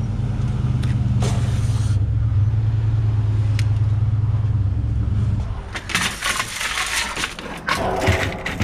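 A vehicle engine running with a steady low hum that cuts off about five and a half seconds in, followed by clattering and scraping of scrap metal being handled.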